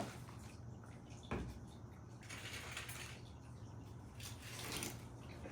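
Faint handling noises: one light knock about a second in, then soft rustling twice, as a pot and plant are moved about.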